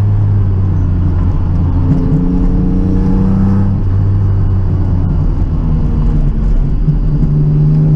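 Rally car's engine heard from inside the cabin, running hard and steadily. Its pitch shifts a few times, with a change about two seconds in and the revs climbing again near the end.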